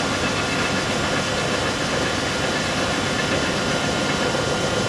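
1991 Strippit 1250S CNC turret press nibbling: the punch hits the sheet in a rapid, even stream of strokes over the steady hum of the machine, real quiet.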